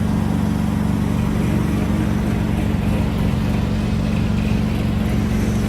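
Large vehicle engine idling steadily with a low, even drone.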